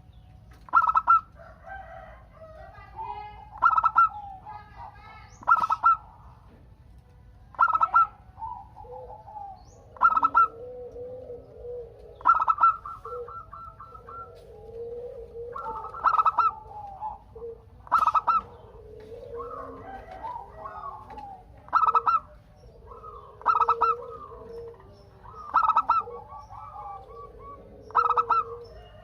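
Zebra doves (perkutut) cooing in a steady series: a loud, short call about every two seconds, with softer rolling coos between, as if more than one bird is calling.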